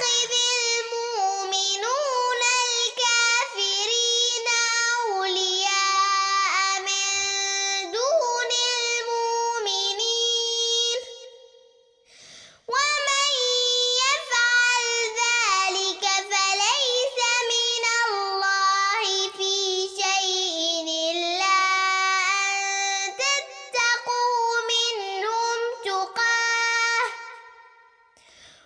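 A young girl's voice reciting the Quran in a melodic chant, with long held, ornamented notes. It runs in two long phrases with a short breath pause in the middle.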